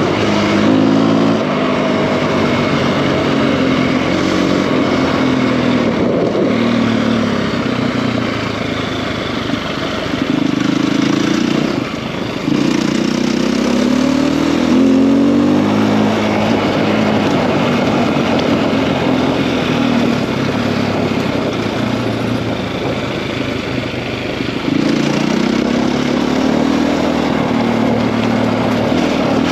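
Single-cylinder four-stroke engine of a KTM EXC-F enduro bike with a 280 big bore kit, revving up and dropping back again and again as the throttle is opened and closed through the gears, with a short easing off about twelve seconds in.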